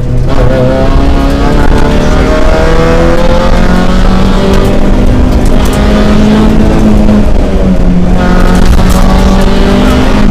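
Opel Astra GSi rally car's engine at speed, heard from inside the stripped cabin. The engine note climbs slowly for about eight seconds, dips sharply, then starts climbing again.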